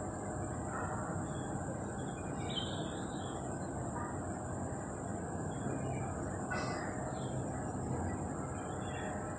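Birds chirping and calling now and then over steady background noise, with a constant high-pitched hiss.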